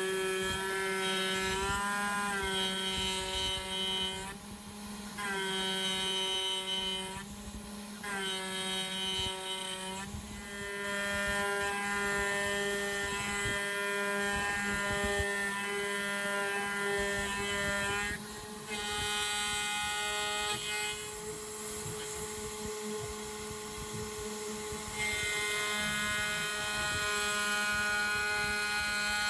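Home-made CNC router's spindle running while an end mill roughs out a solid block of 6082 aluminium: a steady spindle whine under a set of higher cutting tones that shift in pitch and break off for a moment several times as the tool moves in and out of the cut.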